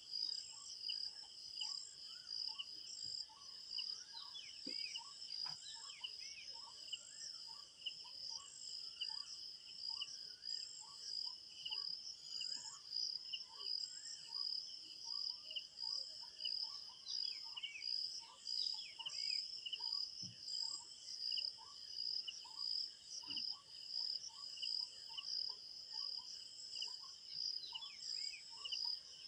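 Crickets chirping in a steady, pulsing high trill. Beneath it a short call repeats about one and a half times a second, with scattered brief bird chirps.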